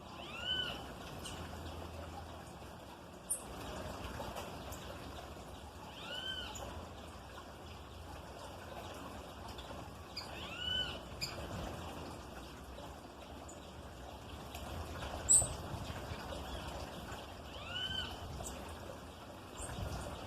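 A songbird giving a short, arched call note four times, spaced several seconds apart. A sharp click sounds about three seconds in, and a brief, louder high tick comes later.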